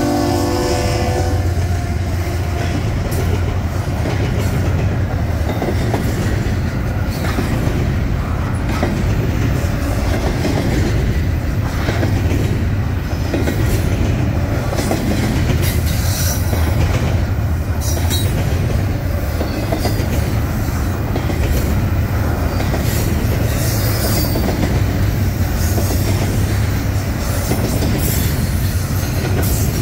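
Union Pacific double-stack intermodal train passing close by. Its wheels make a steady rumble with clicking over the rails and brief high-pitched squeals now and then. The tail of the locomotive horn fades out about a second in.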